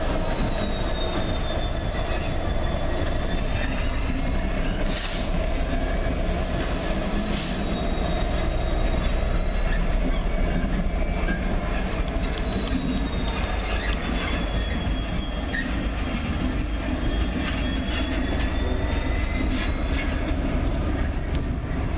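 Train rolling slowly with its wheels squealing on the rails: a high, slightly wavering squeal held over a low rumble, with a few sharp clicks.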